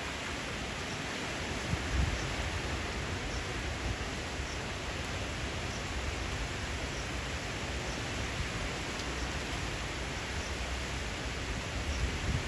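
Steady rush of wind and rain, with low gusts swelling briefly about two seconds in and again near the end.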